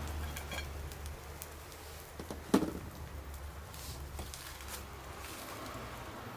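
Campfire crackling with scattered small ticks, and one sharp pop about two and a half seconds in, over a low steady rumble.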